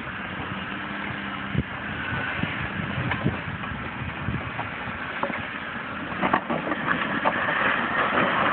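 A 4x4's engine running at low speed, with scattered knocks and clunks on top.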